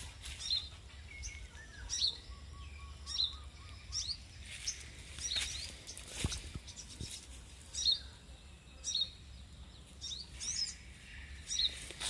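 A small bird calling with short, high chirps, about one a second.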